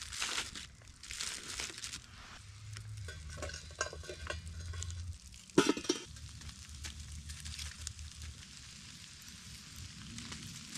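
Sizzling and crackling of cooking over a campfire, with a sharp knock about halfway through.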